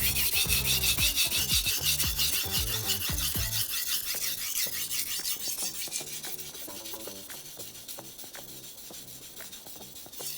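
Honyaki fugu-hiki knife blade rubbed back and forth on a whetstone in quick repeated strokes, a gritty hiss. It is loudest in the first few seconds and grows fainter after about six seconds.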